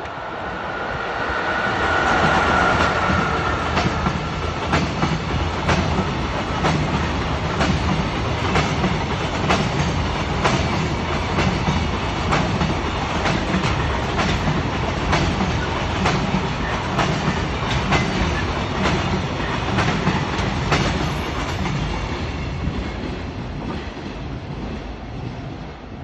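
JR Freight EF66 electric locomotive passing with a long train of Koki container flatcars: it is loudest as the locomotive goes by about two seconds in, then the steady rumble of the wagons with a regular clickety-clack of wheels over rail joints, fading near the end.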